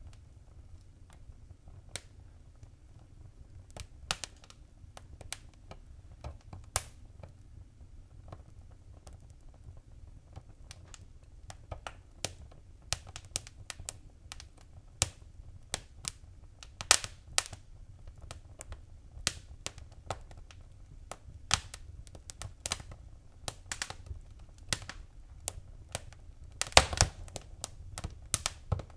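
Wood fire crackling: irregular sharp pops and snaps over a low steady rumble, coming more often as it goes on, with a quick run of loud pops near the end.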